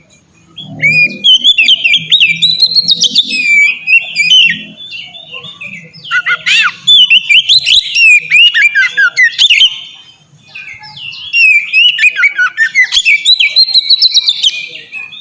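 Oriental magpie-robin (kacer) singing a loud, rich song of rapid, varied whistled notes. It comes in three long phrases, with short lulls about five and ten seconds in.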